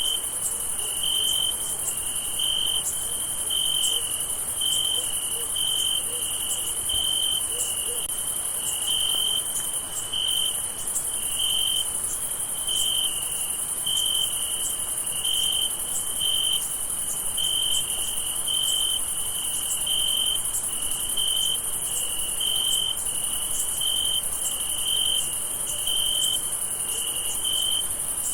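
Crickets chirping at night: one chirps in even pulses, about three every two seconds, over a continuous high-pitched insect trill.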